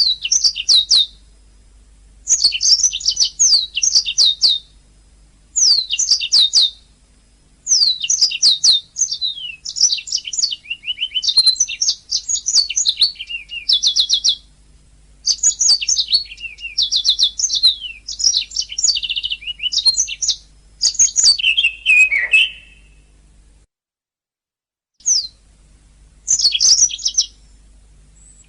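A domestic canary singing in bursts of rapid, high trills and chirps, broken by short pauses. The song cuts out completely for about a second near the end, then starts again.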